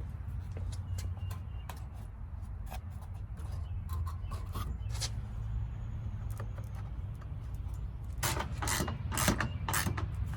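Scattered clicks and knocks, with a cluster of louder knocks near the end, over a steady low rumble.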